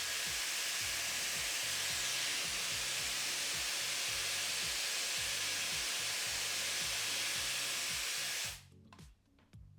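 M Ionic hair dryer's high-speed motor running, blowing a steady rush of air, and switched off abruptly near the end. Background music with a steady beat plays underneath.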